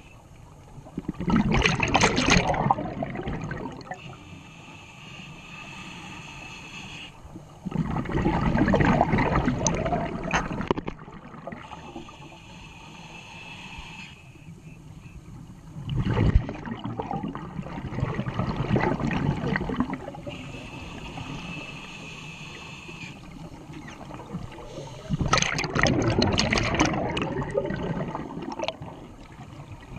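Scuba diver breathing underwater through a regulator: four loud gurgling rushes of exhaled bubbles, each lasting about three seconds and coming about every eight seconds, with quieter stretches between.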